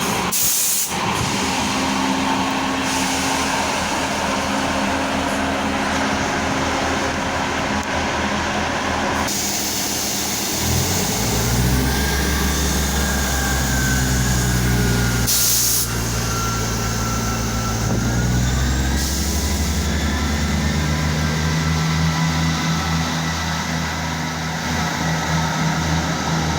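Class 158 diesel multiple unit's underfloor diesel engines running at the platform. About ten seconds in they power up to a louder, higher note with a whine that rises and falls, as the unit pulls away. Two short hisses of air come from the train, one at the start and one about halfway through.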